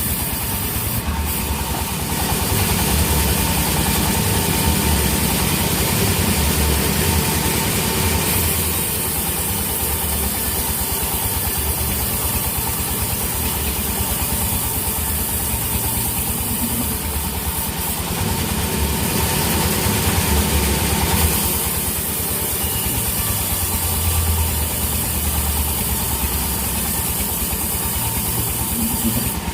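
Sawmill machinery running steadily, an engine-like drone, with stretches where a louder high hiss comes in.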